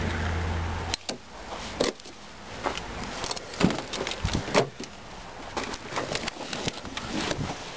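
A steady low hum cuts off about a second in, followed by scattered clicks and knocks of the car's doors, seats and trim being handled.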